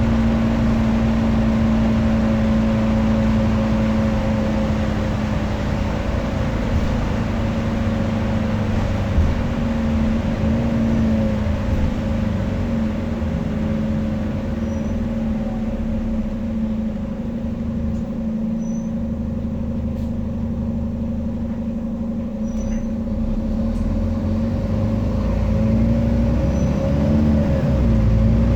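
Scania N230UD double-decker bus running under way, its engine and driveline giving a steady whine. It eases off in the middle and builds louder again near the end.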